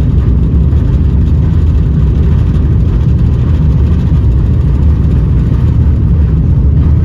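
Steady, loud, deep rumble of a Finnair Airbus A350-900's Rolls-Royce Trent XWB engines and airframe, heard from inside the passenger cabin.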